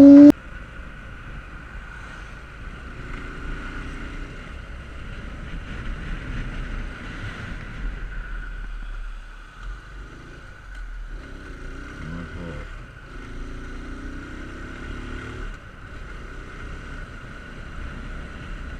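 A motorcycle engine running under a steady rush of wind noise, its note rising and falling faintly a few times as the rider rides.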